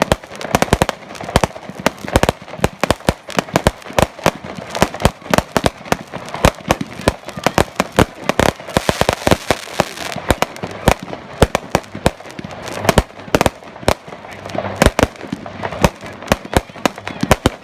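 Fireworks display: a dense, continuous barrage of sharp bangs and reports, several a second, with a stretch of hissing crackle about halfway through.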